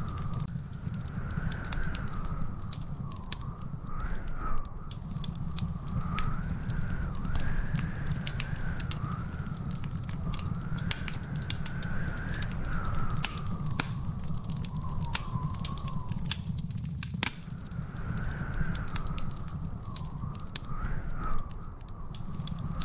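Wood fire crackling, with frequent sharp pops and snaps over a steady low rumble. A wavering, whistle-like high tone rises and falls throughout.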